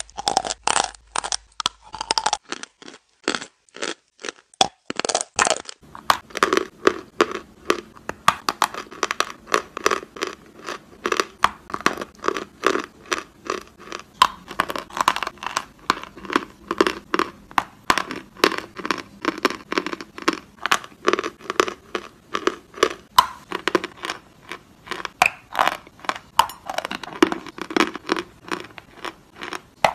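Close-up chewing of chalk: crisp, rapid crunches, several a second, as the chalk is bitten and ground between the teeth. The recording changes about six seconds in.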